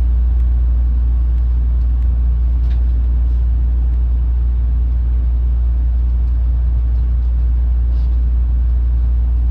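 Steady low rumble inside a moving train, with a few faint clicks.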